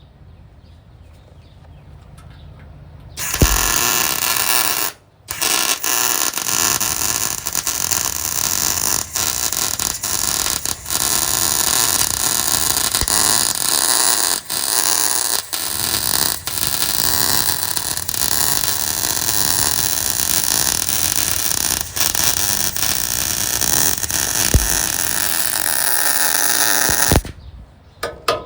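MIG welder arcing on steel: a loud, steady crackling buzz that starts abruptly about three seconds in, breaks off for a moment, then runs on until it stops abruptly near the end, with a low hum before it.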